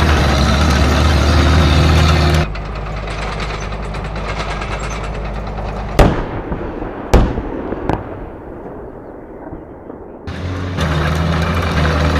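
A string of tank sound effects. A tank engine runs with a steady low drone, then a cut brings two heavy cannon shots about a second apart, each ringing out in a long fading echo, and a smaller crack just after. Near the end another tank engine drone starts.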